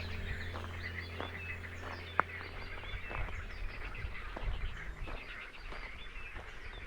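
Several small birds chirping and calling in a chorus of short, quick notes. There is one sharp click about two seconds in, and a low hum fades out in the first couple of seconds.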